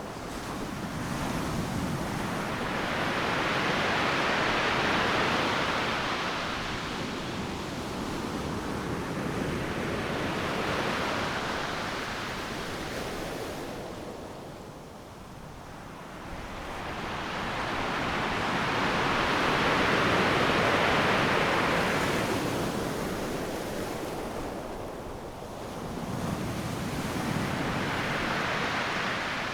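Ocean surf breaking on a sandy beach, wave after wave: the rush of water swells and fades every several seconds, with a lull about halfway.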